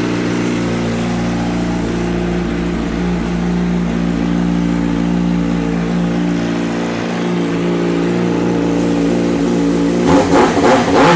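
2007 Yamaha YZF-R6S inline-four sport-bike engine idling steadily through a GYTR aftermarket exhaust, then revved near the end.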